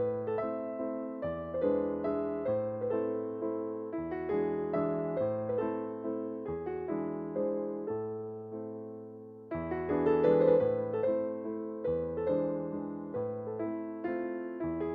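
Background piano music: a gentle, even pattern of notes over a low bass line that changes every second or so.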